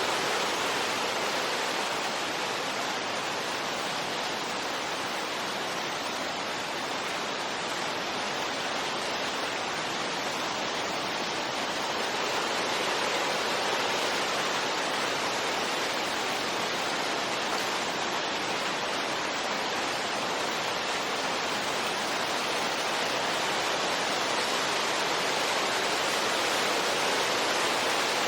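Steady wind noise: an even, rushing hiss that slowly eases and swells a little.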